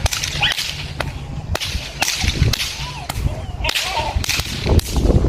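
A whip being cracked over and over, sharp cracks at about two a second.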